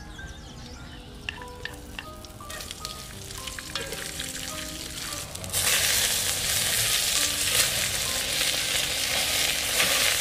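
Meat frying in a hot metal pot with ginger, garlic and onion: a loud, even sizzle sets in suddenly about five and a half seconds in and holds. Before it, a few small clicks of pieces landing in the pot over soft background music.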